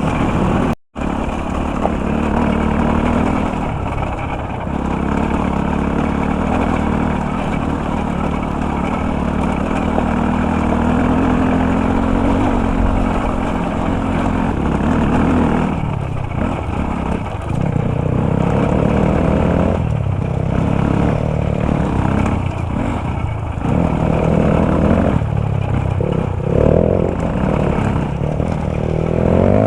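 Dirt bike engine running while ridden, its pitch rising and falling with the throttle, more changeable in the second half. There is a very brief cutout about a second in.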